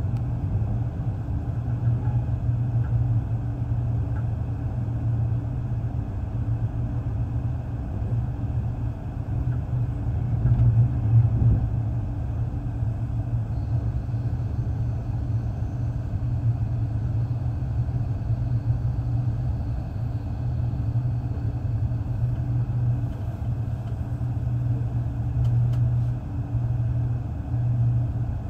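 Steady low rumble of a passenger train running on the rails, heard from inside the carriage. A faint high whine comes in for several seconds midway.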